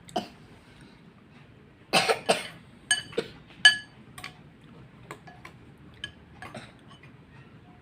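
Eating sounds: an eating utensil clinking against a bowl of noodle soup about half a dozen times with a short ringing, mixed with two louder, rougher noises about two seconds in.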